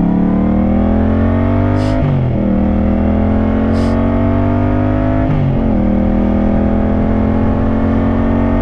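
Motorcycle engine, a Yamaha CP2 parallel-twin, pulling through the gears. The note climbs steadily, drops sharply at upshifts about two seconds and five seconds in, then climbs again.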